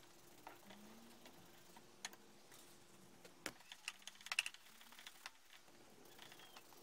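Faint scattered light clicks and taps of small hard objects, most of them bunched together about three and a half to four and a half seconds in, over near silence.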